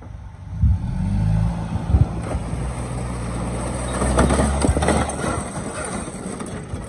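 Toyota Tacoma's four-cylinder engine held at full throttle, its note steady, then dropping away after about five seconds. Knocks and crunches come through it, most of them between about four and five seconds in, as the truck runs into the riding mower.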